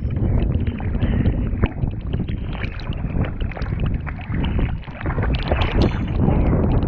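Kayak paddling: water splashing and dripping off the paddle blades in many short splashes, over a steady rumble of wind on the microphone.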